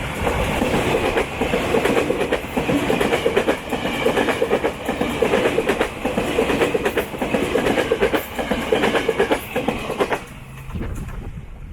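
Train passing close by: steel wheels clattering over the rail joints in a quick, even rhythm. The clatter drops away about ten seconds in as the last car goes past.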